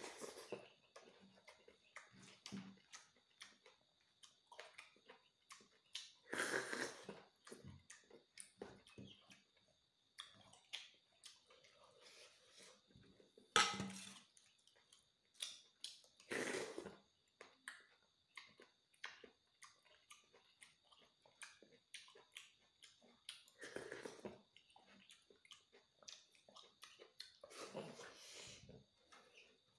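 Close-up chewing and slurping while eating boiled insect larvae with rice, with scattered small mouth clicks and a few louder bursts, the sharpest one a spoon striking a steel bowl a little under halfway through. A faint steady high tone sits underneath.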